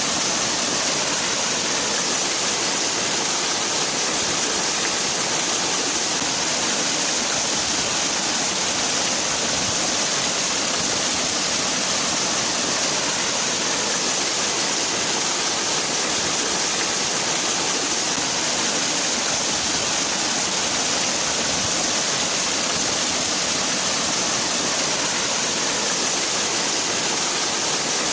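Waterfall: water falling and splashing in a steady, unbroken hiss, heaviest in the high end.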